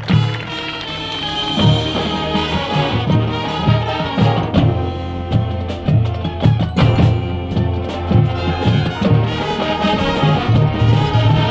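Marching band playing: brass section carrying the tune over drumline percussion, with a low line pulsing in a steady rhythm.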